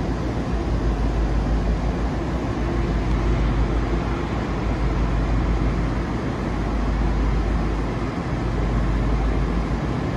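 Steady low rumble inside the coach of a Virginia Railway Express commuter train, with no separate knocks or horn.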